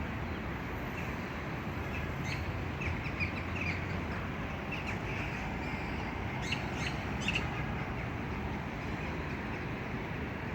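Small birds chirping in short high calls, in two bursts of activity, over a steady background noise.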